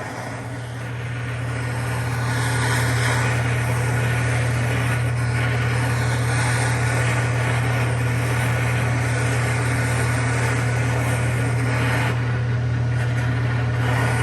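Electric air compressor starting and running: a steady motor hum with a hiss over it. It builds over the first couple of seconds, then holds level.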